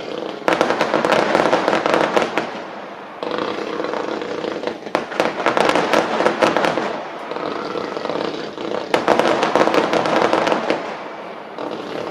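Fireworks crackling: dense runs of rapid pops in three long bursts of a few seconds each.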